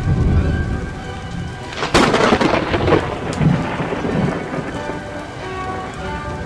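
Heavy rain falling, with thunder: a low rumble, then a sharp thunderclap about two seconds in that rolls on for about a second.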